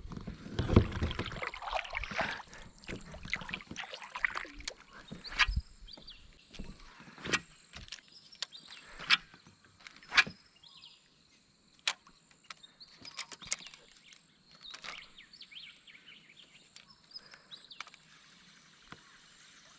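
Sounds of a fishing kayak on the water: splashing in the first few seconds, then scattered sharp knocks and clicks on the boat.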